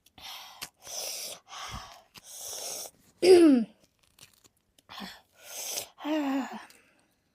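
A woman breathing in and out sharply, hissing and gasping in a string of short breaths, as happens with chilli heat in the mouth. Two short voiced 'aah' sounds come in, a loud one about three seconds in and another near the end.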